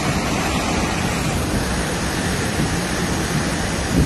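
Steady, loud rushing storm noise of water and wind, with a short knock near the end.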